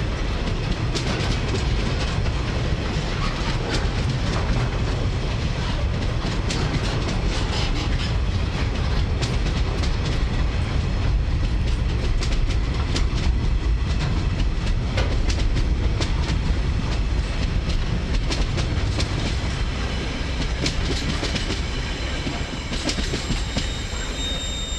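Freight train wagons rolling past close by, first empty log wagons, then container flat wagons. Wheels click over the rail joints above a steady rumble. The last wagons pass near the end.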